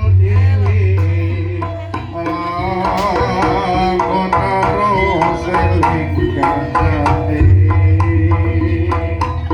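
Jaranan music: kendang hand-drum strokes over a deep, sustained bass and a wavering melody line.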